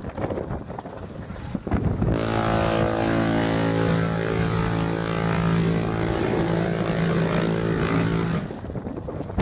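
A steady, low engine drone over a rushing noise. It sets in about two seconds in and drops away near the end.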